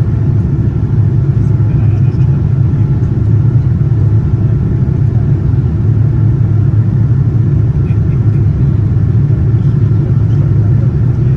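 Steady, even low rumble heard inside the cabin of a Boeing 787-9 in flight: the drone of its GEnx engines and the airflow around the fuselage.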